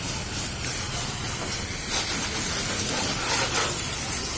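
High-pressure washer spraying a water jet, a steady hiss.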